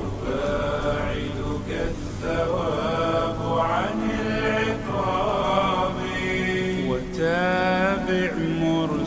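Slowed-down Arabic nasheed: voices singing long, drawn-out gliding notes in a chant-like melody, without clear words.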